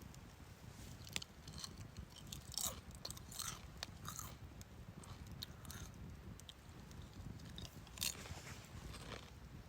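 Firewood burning in a small campfire, crackling with scattered sharp pops over a low, steady rumble.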